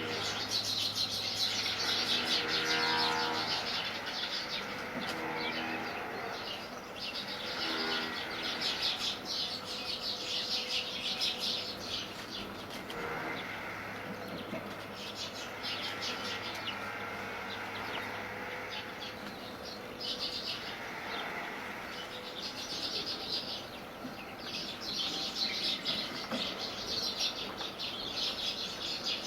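A flock of sparrows chirping in a continuous, busy chatter of quick overlapping chirps. A lower, drawn-out call sounds several times in the first eight seconds, over a faint steady low hum.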